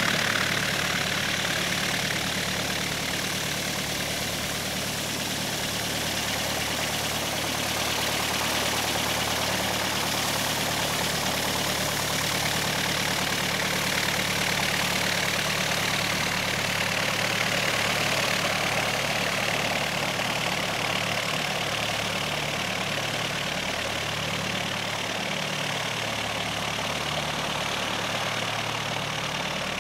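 An engine running steadily at a constant low speed, with an even hum and no rise or fall in pitch.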